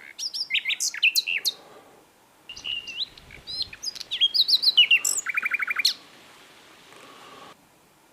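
Common nightingale singing: two varied phrases of quick whistles and chirps, the second ending in a fast run of repeated notes, followed by a pause of a second or two.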